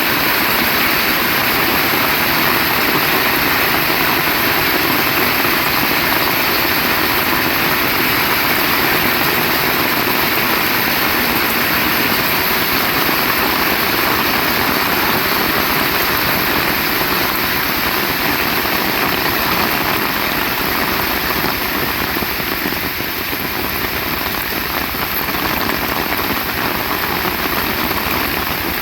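Heavy rain falling in a steady, dense hiss, easing slightly about two-thirds of the way through.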